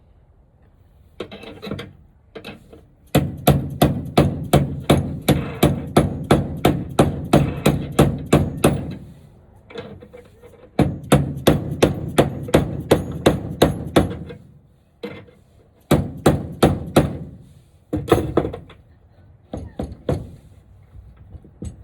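Hammer blows on a wooden frame, struck in quick runs of about three to four a second lasting several seconds, with short pauses between the runs.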